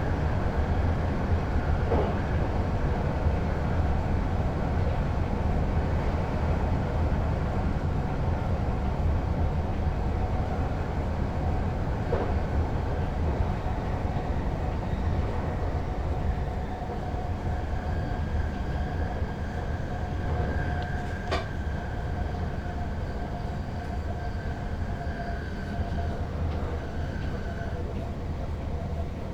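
Sprinter Lighttrain (SLT) electric multiple unit running, heard from the driver's cab: a steady rumble with a few sharp clicks. A steady high whine comes in about halfway through and fades out near the end.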